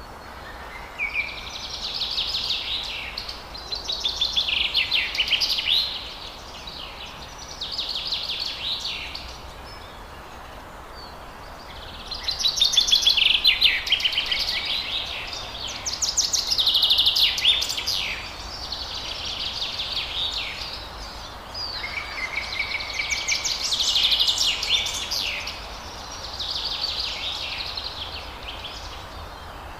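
Forest birds singing: repeated phrases of fast, trilling notes, each a second or two long, some opening on a short steady whistle, with brief pauses between them. A steady faint background hiss runs underneath.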